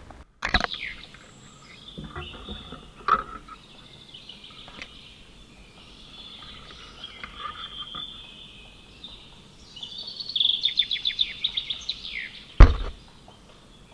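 Birds chirping outdoors, with scattered calls and then a quick run of high chirps about ten seconds in. A single sharp knock comes near the end.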